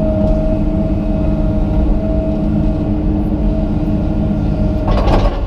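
Komatsu PC200 excavator's diesel engine running steadily while working, with a steady whine above the engine hum. A brief clatter comes about five seconds in.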